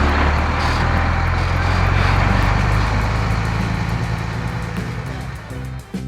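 Cartoon vehicle sound effect: a loud engine rumble with a rushing noise, fading away near the end, with background music underneath.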